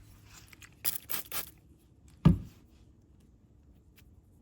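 A hand spray bottle spritzing water onto a freshly cut rock: three quick hissing sprays about a second in. A little after two seconds, a single sharp thump, likely the bottle or rock being set down.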